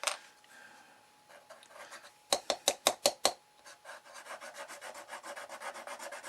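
About six sharp scraping strokes on card, then a quick, even run of softer back-and-forth rubbing strokes, about six or seven a second.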